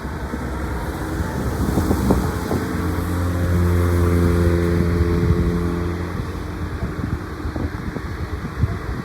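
An engine drone swells up about two and a half seconds in and fades away again by about six seconds, over steady wind noise on the microphone.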